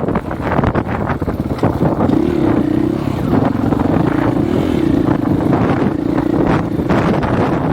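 Dirt bike engine running at a steady, slightly wavering pitch while riding, under heavy wind buffeting on an unprotected microphone.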